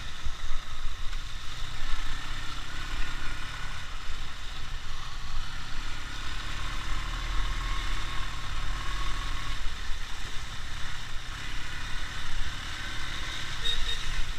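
Ural motorcycle's flat-twin engine running steadily, its pitch drifting slightly.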